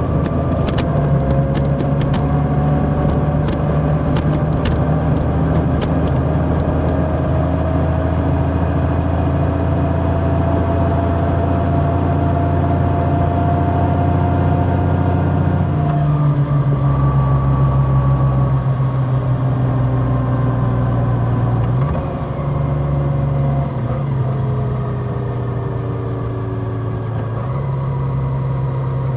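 Large motorcycle engine running steadily under way. Its note changes about sixteen seconds in and again around twenty-two and twenty-seven seconds. A few sharp clicks come in the first several seconds.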